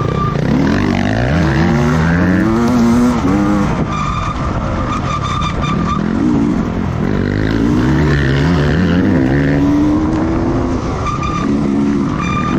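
Racing motorcycle engines at full throttle, the pitch climbing and dropping back again and again as the riders shift up through the gears.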